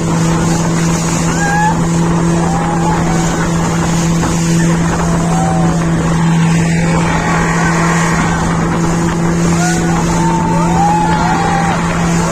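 Motorboat engine running at a steady speed, a constant low drone over a wash of engine and water noise.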